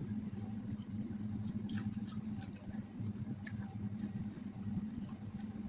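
Small scattered clicks of a person chewing and eating over a steady low hum.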